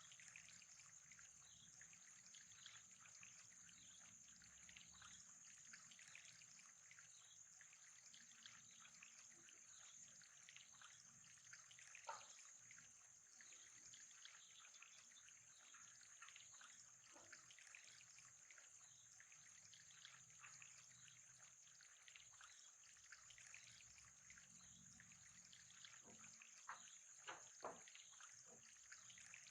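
Faint trickling water with a dense light patter over a steady high whine, with a few louder drips or plinks, one about twelve seconds in and three near the end.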